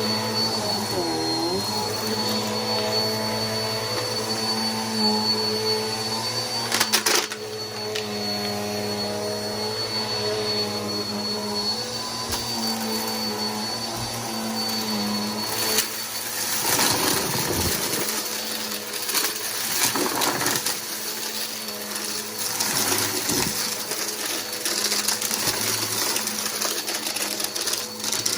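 Bissell PowerForce Helix upright vacuum running, its motor giving a steady high whine. From about halfway through there is more rushing hiss as it is worked.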